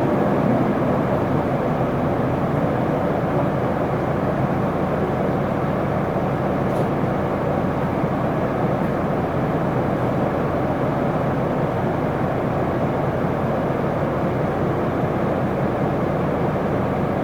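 Isuzu Erga city bus under way: engine hum and road noise running steadily, with no change in pace.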